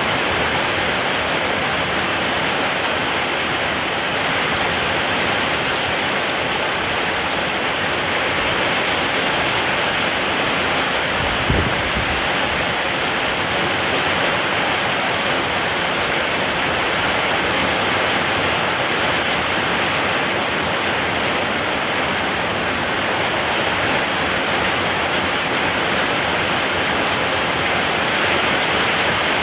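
Steady rain falling, an even hiss without a break, with one brief low thump a little before halfway.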